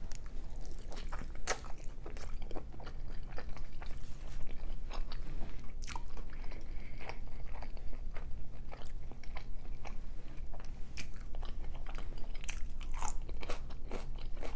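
A bite into a consommé-dipped birria taco, then close-miked chewing with many irregular sharp mouth clicks.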